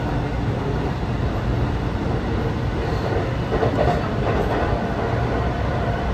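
Athens Metro Line 3 train running at speed, heard from inside the carriage: a steady rumble from the wheels and running gear, swelling briefly a little after the middle.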